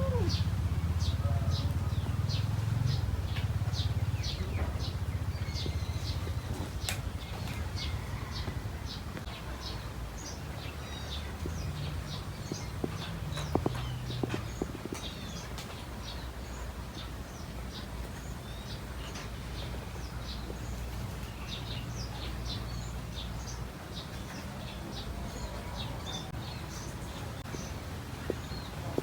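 Small birds chirping, many short high chirps a second, over a low steady rumble that is loudest in the first few seconds.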